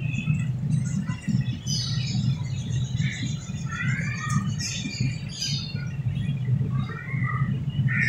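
Small birds chirping and twittering, many short calls with some quick sweeping notes, over a steady low rumble.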